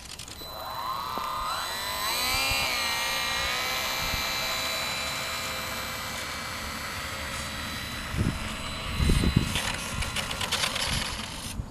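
Electric motor and propeller of a HobbyZone Carbon Cub S2 RC airplane spooling up with a rising whine, then running at a steady high pitch that slowly fades. A few low thumps come near the end.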